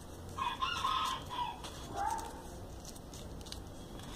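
Faint bird calls in the background: a few high notes in the first second and a half, then a falling note about two seconds in.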